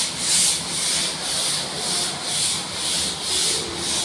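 Steady back-and-forth rubbing strokes of a hand tool on a hard surface, a hiss-like scrape about twice a second.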